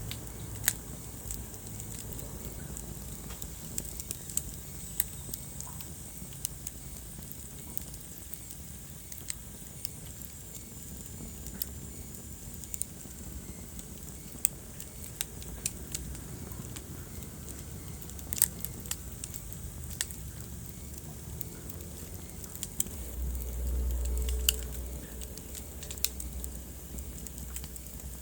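Wood fire in a fireplace crackling, with sharp irregular pops over a low steady rumble of flame; the rumble swells briefly near the end.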